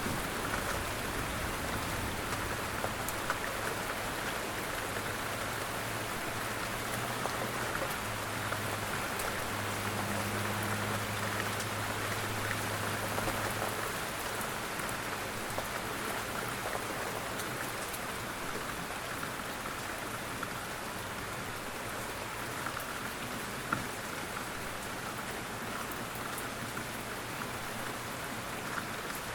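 Steady rain falling and pattering, an even hiss of drops with a few scattered ticks. A low hum sits under it and fades out about halfway.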